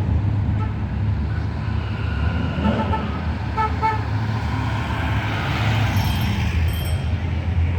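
Cars' engines rumbling steadily as they cruise past, with a couple of short car-horn toots about halfway through.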